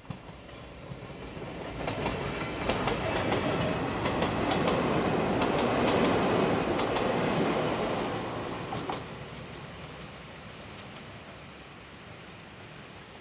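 Izuhakone Railway's Kode 165 electric car hauling a 5000 series train set passes by. The rumble builds and is loudest for several seconds, with wheels clacking over rail joints, then fades away.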